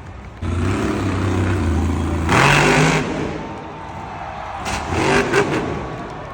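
Monster truck engine coming in abruptly about half a second in and running at a steady low pitch, then revved hard with a rising pitch around the middle, with a second shorter rev near the end.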